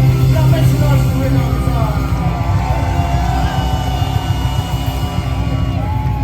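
Live rock band playing loudly, with a heavy, steady bass and a lead melody that bends in pitch and holds long notes.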